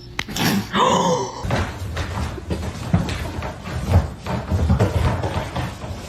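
A short wavering cry near the start, followed by a rapid, irregular run of thumps and knocks.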